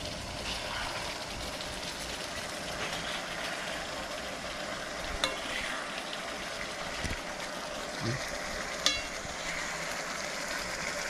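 Chicken adobo sizzling steadily in a pan, with a couple of sharp clicks, one briefly ringing, about five and nine seconds in.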